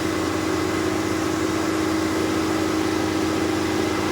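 Tractor diesel engine running at a steady speed, an even hum with no change in pitch.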